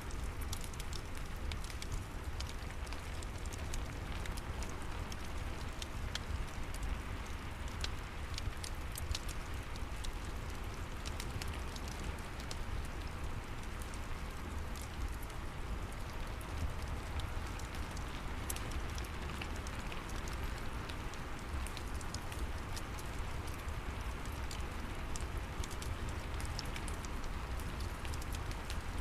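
Steady rain with a fireplace crackling: a constant hiss of rain with frequent sharp pops and snaps over a low rumble.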